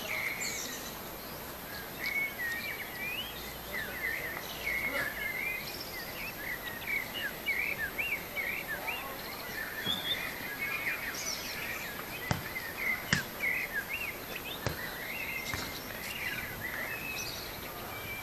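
Small birds chirping and singing continuously over a steady outdoor background hiss, with a few sharp knocks around the middle.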